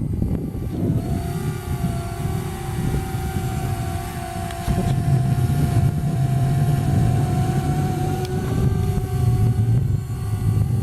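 Parrot Bebop quadcopter's propellers whining steadily in flight, the pitch shifting slightly about eight seconds in, over a low rumble of wind on the microphone.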